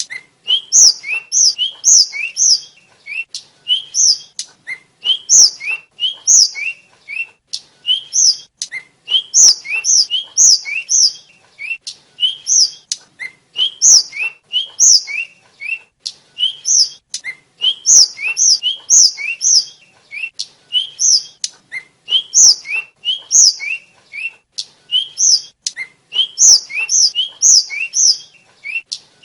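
A flycatcher of the kind sold in Indonesia as tledekan or sulingan, singing: a continuous run of short, high, sliding chirps, in quick clusters of two or three with brief gaps between them.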